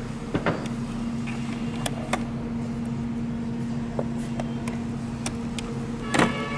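A steady machine hum at a fixed pitch, with a dozen or so light clicks and taps scattered through it.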